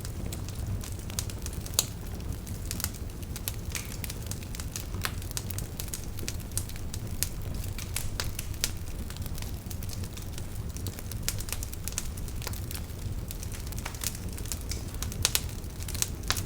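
Wood fire in a fireplace burning with a steady low rumble and irregular crackles and sharp pops, a few louder snaps about two seconds in and again near the end.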